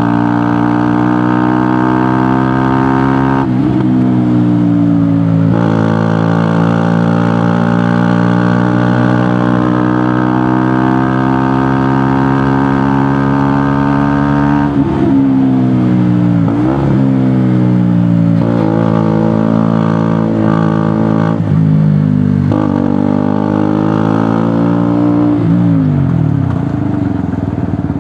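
KTM Duke motorcycle with a GPR aftermarket exhaust running on the road. The engine note holds steady for long stretches, broken by several short dips and rises in pitch as the throttle is eased and opened again.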